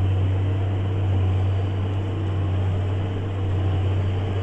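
JCB Fastrac 8250 tractor's engine running steadily under load while ploughing, a constant low drone.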